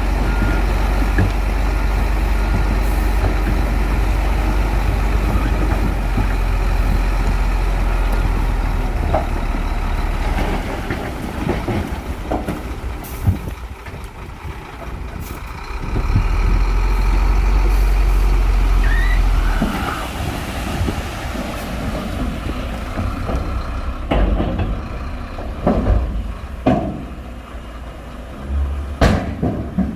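Shantui bulldozer's diesel engine working under load as it pushes soil, its low rumble heavy for the first ten seconds, easing, then loud again for a few seconds in the middle. Over the last several seconds the engine runs lighter and several sharp metallic clanks are heard.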